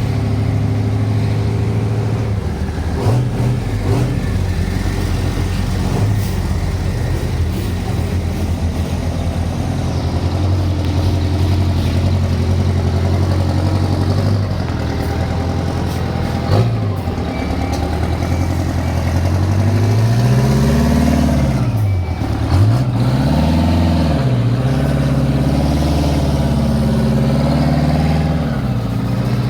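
Heavy truck diesel engine running steadily, then revving, its pitch rising and falling about three times in the second half.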